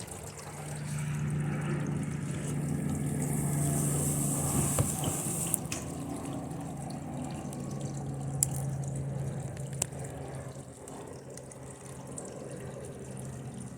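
Circuit board burning under high current from a lead-acid battery: a hissing, sizzling burn with a few sharp crackles, over a steady low hum.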